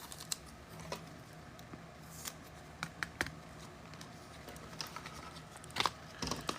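Trading cards and packs being handled on a table: faint scattered taps, slides and rustles, with a few sharper clicks near the end.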